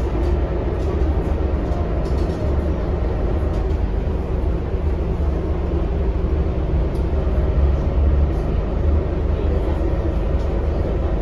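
Scania K230UB city bus under way: a steady low engine rumble with road noise.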